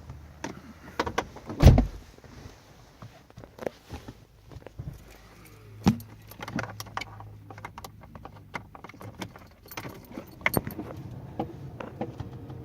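Car keys jangling, with a scatter of small clicks and a heavier thump about two seconds in. A faint low hum runs through the middle.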